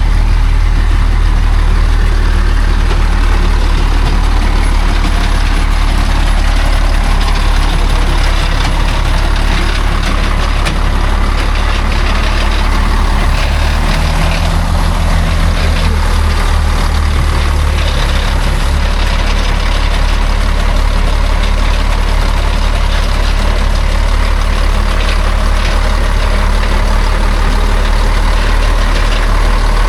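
A heavy logging truck's diesel engine running steadily at close range. Its note changes for several seconds about halfway through.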